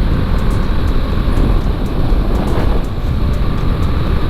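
Steady wind and road noise on a motorcycle rider's microphone at speed, with a Bajaj Dominar 400's single-cylinder engine running underneath.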